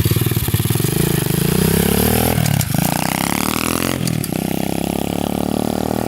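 SSR 125 pit bike's single-cylinder four-stroke engine accelerating under a rider. The pitch rises, drops at a gear change about two and a half seconds in, rises again, and drops at a second shift about four seconds in, then runs steadier.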